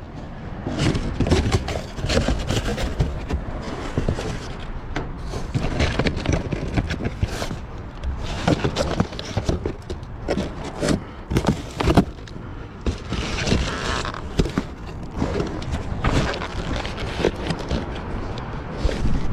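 Rummaging through trash in a dumpster: steady rustling and scraping with many irregular knocks and clicks as bags and items are moved about.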